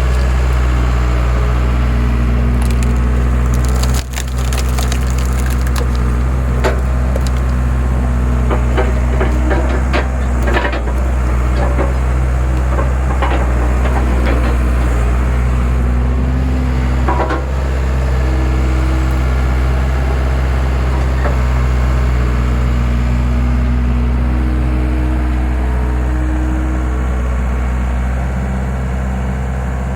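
A skid steer engine runs steadily while its homemade hydraulic wood splitter forces logs apart, with wood cracking and snapping repeatedly through the first half.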